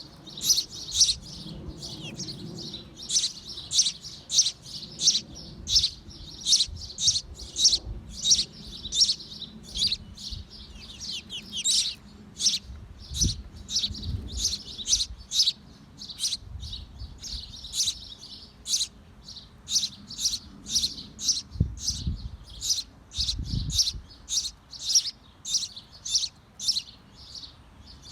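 Small birds in a birdhouse chirping: a continuous run of short, high chirps, about two or three a second, with a few low thumps mixed in.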